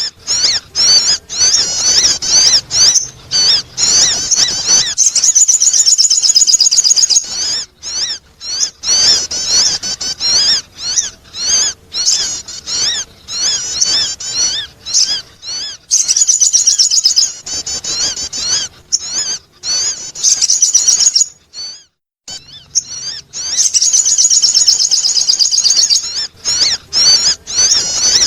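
Sogon (a sunbird) calling in a fast, high-pitched, squeaky twittering, used as a lure sound to attract birds; the calling pauses briefly twice, once about a third of the way through and again near the end.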